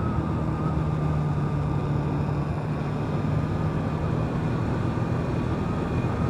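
Motorcycle engine running at a steady cruise, its note holding even, with wind rushing over the microphone.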